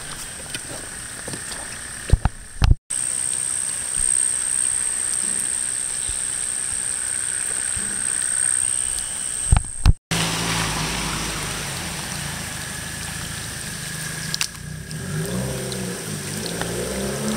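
Rain falling on wet pavement and standing water, with a few sharp knocks from the phone being handled. The sound cuts out briefly twice. In the last part a vehicle engine runs low and rises in pitch near the end.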